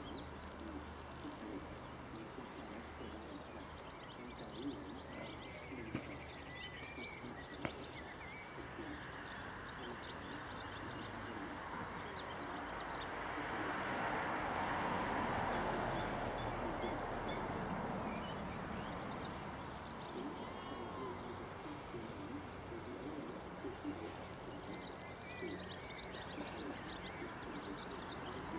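Small birds chirping and calling over steady outdoor ambience. About halfway through, a broad rushing noise swells up and fades away again.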